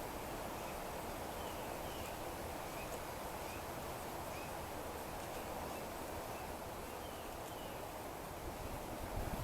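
Steady outdoor background hiss with faint, short bird chirps scattered through it.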